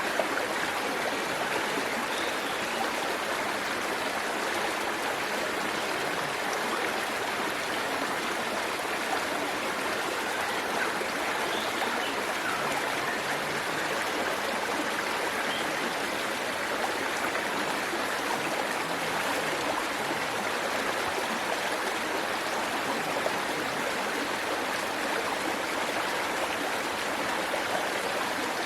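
Waterfall and stream water rushing steadily, an even, unbroken wash of splashing water.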